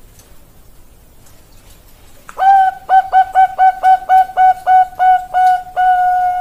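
Zebra dove (Bangkok perkutut) singing: after a couple of seconds of quiet, a fast run of about a dozen short cooing notes at one steady pitch, ending in one longer held note.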